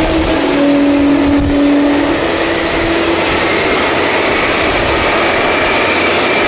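Jet airliner engines: a loud, steady rush with low hums that shift in pitch and fade over the first few seconds, and a thin high whine that rises slightly from about halfway.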